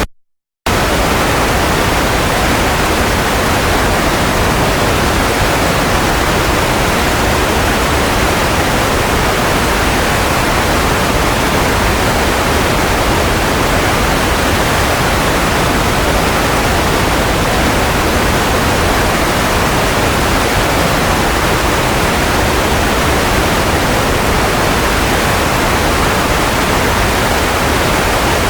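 Steady, featureless white-noise hiss of the kind played to soothe a baby to sleep, heavier in the low end. It is broken by a half-second gap of silence right at the start.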